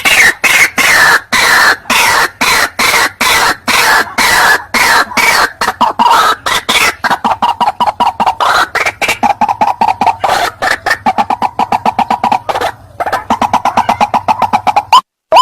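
White-breasted waterhen calls from a lure recording: a loud, fast run of harsh notes repeated several times a second. There is a short break about thirteen seconds in before the calling resumes.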